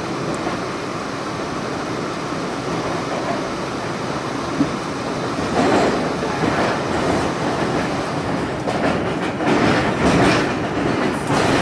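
R46 subway car running on the rails, heard from inside: a steady rumble of wheels on track, growing louder with rattling surges from about halfway through.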